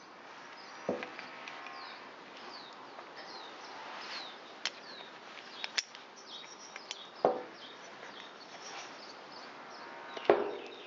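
Birds chirping repeatedly in the background, short falling calls. Over them come a few light clicks and knocks of small parts being handled, with a louder knock near the end.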